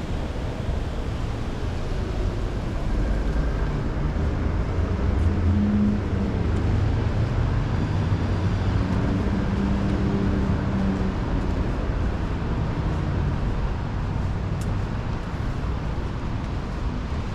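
Road traffic on a city street: a vehicle's engine passes, loudest about six seconds in, over a steady low rumble of traffic.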